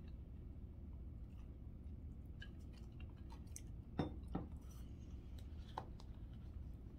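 Faint mouth sounds of a person eating: chewing and small wet clicks, with two sharper smacks about four seconds in, over a low steady room hum.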